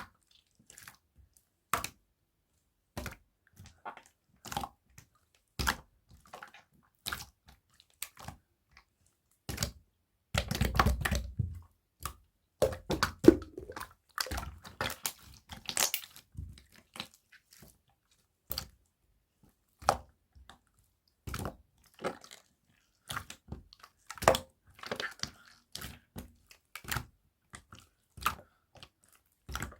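Hands pressing and folding a gold slime: scattered sticky clicks and pops, with longer spells of crackly squishing about a third of the way in and again near the end.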